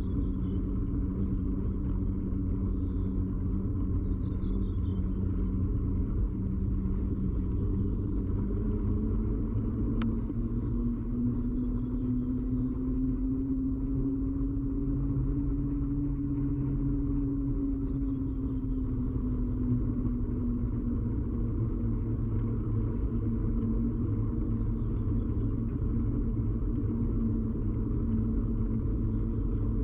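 Ride noise of a bicycle picked up through a camera fixed to the bike: a steady low rumble with a droning hum that rises a little in pitch partway through and settles back down. A single sharp click about ten seconds in.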